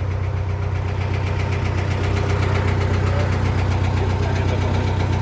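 Diesel engine idling steadily close by, with a deep even hum; it gets slightly louder about two seconds in.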